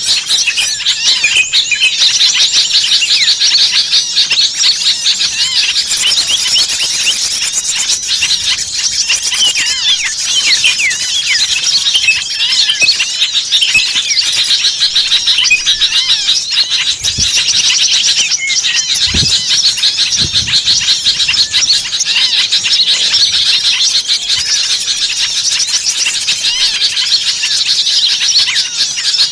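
A dense chorus of many small songbirds calling at once: rapid, overlapping high chirps and short whistled glides that never pause. It is a noisy, agitated clamour of the kind played as a lure to draw small birds in.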